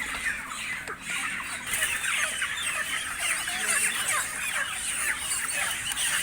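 A large crowd of broiler chickens clucking and squawking together, many short calls overlapping without a break.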